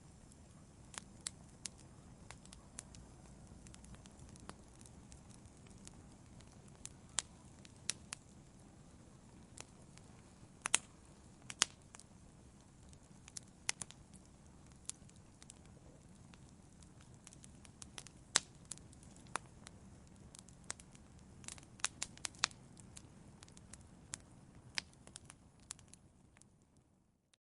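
Wood fire crackling: frequent, irregular sharp pops over a low, steady rumble of the flames. The sound fades out near the end.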